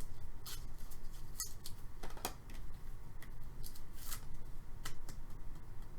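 Trading cards being handled: short swishes and light clicks as cards slide against each other and are shuffled through, a few times a second, over a faint steady hum.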